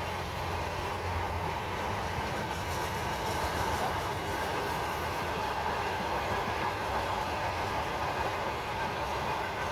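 A train rolling past on the tracks: a steady rumble of wheels on rail with a light clatter.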